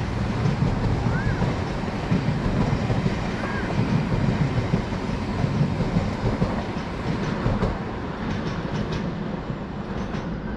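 Train running along the track: a steady rumble of wheels on rail, easing slightly near the end, with a few faint clicks.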